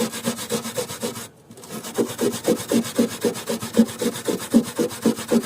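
Hand wire brush scrubbing a rust spot on the steel of a car's windscreen frame, in quick back-and-forth strokes about four a second, with a brief pause a little over a second in.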